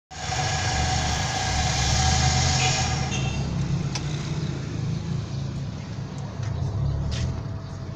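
Car engine idling steadily under the open bonnet, with a high whine over it for the first three seconds or so that then fades.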